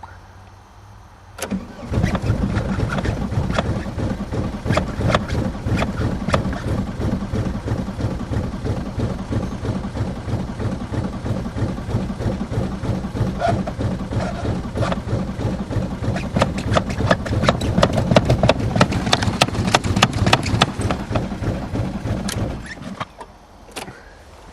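1993 VW Jetta's 1.9-litre AAZ turbo-diesel engine being cranked by the starter in freezing cold with only one working glow plug. It turns over steadily for about twenty seconds without catching, then the cranking stops near the end.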